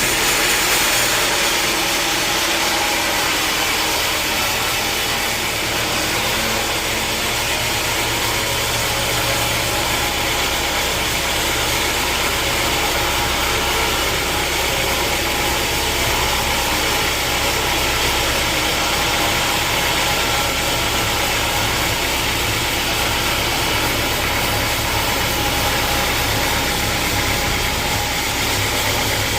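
Sawmill machinery running steadily: a constant mechanical drone with a low hum underneath and an even hiss above.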